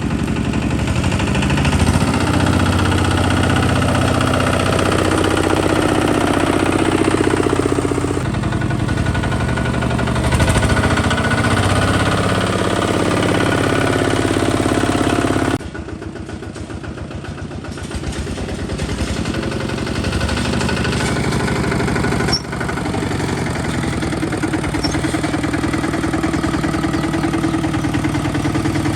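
Single-cylinder diesel engine of a Kubota ZT 155 DI walking tractor running steadily. The sound drops abruptly a little past halfway, then gradually builds back up.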